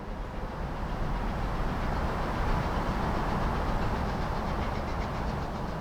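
Train hauled by the Peppercorn A1 steam locomotive 60163 Tornado running on the line, a steady rushing rumble that swells over the first second or two and then holds.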